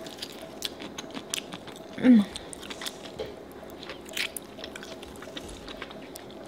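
Close-up wet mouth sounds of someone eating saucy seafood boil: biting and chewing crab meat, with many small smacking clicks. A short voiced "mm" about two seconds in.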